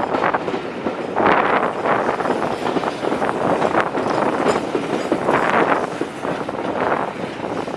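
A train running on the rails, its wheels clattering over the track in many short clicks, with a couple of louder swells as it goes by.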